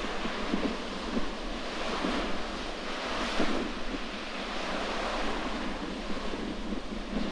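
Sea waves washing against the shore, one surge swelling about three seconds in. Strong wind buffets the microphone with a gusty rumble.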